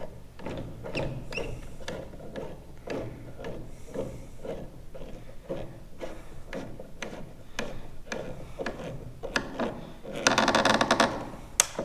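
Hand ratchet clicking in short back-and-forth strokes, about two clicks a second, as screws on a tractor light are turned. Near the end comes a fast run of clicks lasting about a second, then one sharp click.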